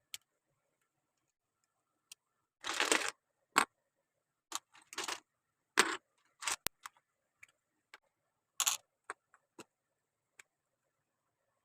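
Plastic Lego pieces being handled and snapped together: irregular sharp clicks and short rattles, a few of them louder than the rest.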